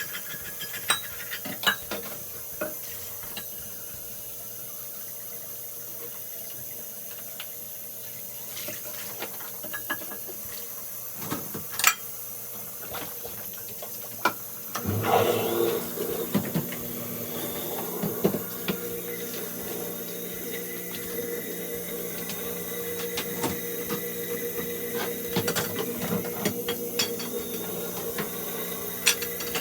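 Kitchen tidying: dishes and cutlery clinking and knocking at scattered moments, with water running at a sink. About halfway in, a steady hum starts and keeps going under further clinks.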